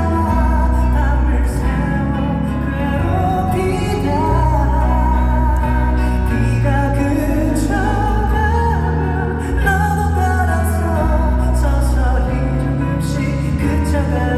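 Male K-pop vocal group singing a slow pop ballad live in concert. A sung melody runs over backing music with a heavy, steady bass.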